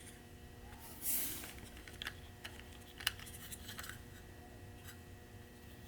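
Faint clicks and a short rustle about a second in, from a small plastic toy truck and its packaging being handled, over a low steady hum.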